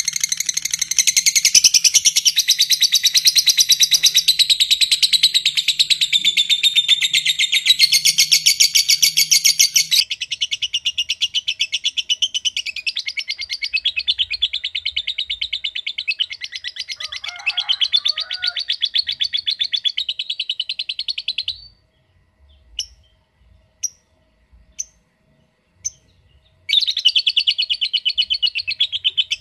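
Lovebird chattering in long, very fast runs of high chirps, the drawn-out trill that keepers call ngekek. About two-thirds of the way through the trill stops, leaving a few single chirps, then starts again near the end.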